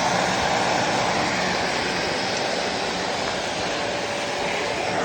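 Vacuum cleaner running steadily, its motor giving a continuous rushing whine.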